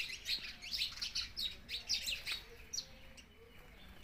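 Small birds chirping: many quick, high chirps that crowd together for the first two seconds or so, then thin out to a few.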